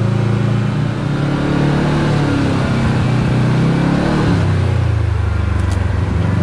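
Kawasaki KRX 4 side-by-side's parallel-twin engine running on the move. It climbs in pitch for about three seconds, drops back about four seconds in, then holds steady.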